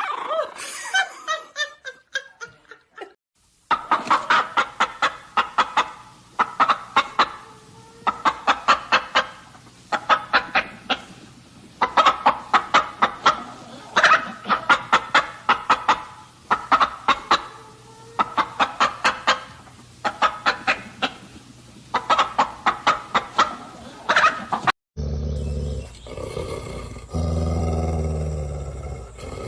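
Domestic fowl calling in quick runs of short, sharp notes, one run about every second and a quarter. Near the end it cuts to a different, lower and steadier sound.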